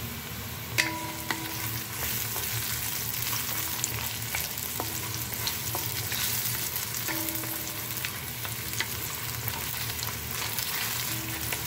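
Dried mushroom slices sizzling steadily in hot oil in a pan, stirred with a wooden spatula that clicks and scrapes against the pan now and then.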